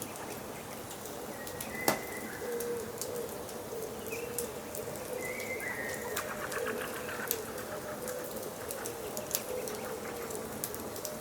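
A wood fire crackling and popping, with one sharp pop about two seconds in, under forest birds calling. A low, repeated cooing runs through it, with a few higher bird notes.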